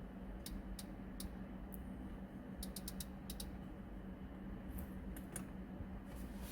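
Irregular clicks, some in quick runs of two or three, from the Audi Q2's MMI rotary controller and buttons being turned and pressed to scroll through the settings menu, over a steady low hum.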